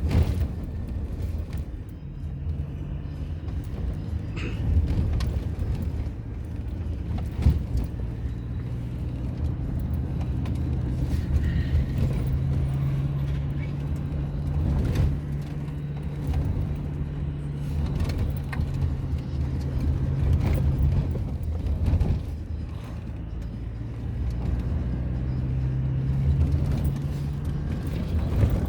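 A car driving, its engine making a steady low drone over road rumble, with scattered short knocks. The engine hum drops away briefly about three-quarters of the way through, then returns.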